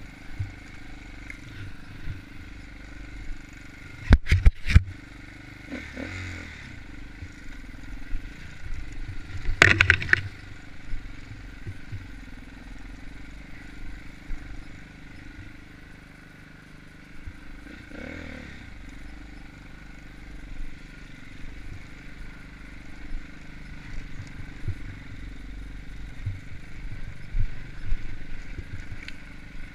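Dirt bike engine running steadily while riding an enduro trail, with sharp knocks and clatter from the bike jolting over rough ground: a cluster about four seconds in and a loud one about ten seconds in.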